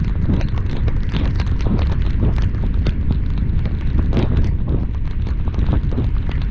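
Heavy rain striking the car and camera while driving, many irregular sharp drop impacts over a constant loud low rumble of wind and road noise.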